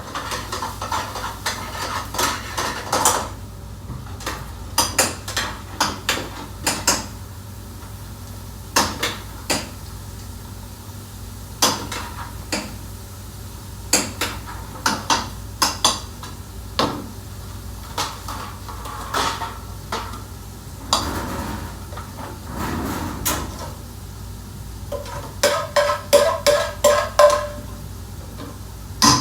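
Metal pots, pans and utensils clattering and clinking in irregular strikes, with a quick run of ringing clinks near the end, over a steady low hum.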